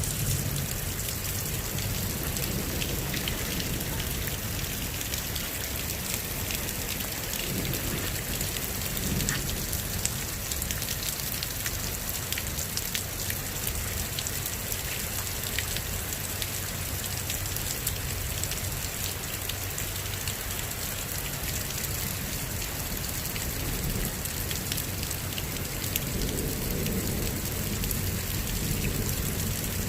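Heavy rain pouring steadily during a thunderstorm, with dense drops pattering close by and a low rumble underneath that swells a couple of times.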